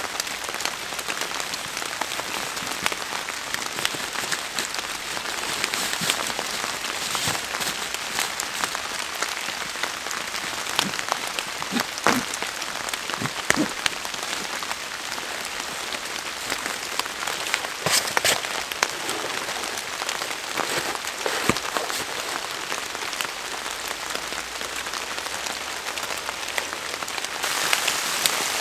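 Rain falling steadily, with many scattered sharper drop hits, growing louder near the end.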